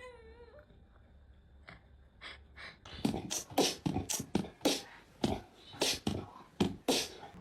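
A short meow at the start, then a run of sharp, noisy puffs or scuffs, about two a second, growing louder through the rest.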